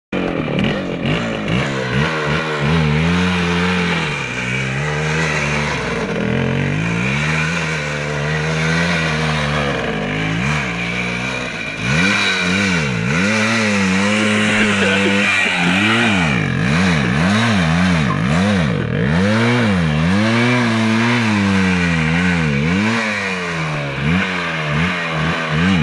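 Voskhod 3M motorcycle's 175 cc single-cylinder two-stroke engine being revved over and over, its pitch rising and falling, with a quick run of short blips of the throttle in the middle.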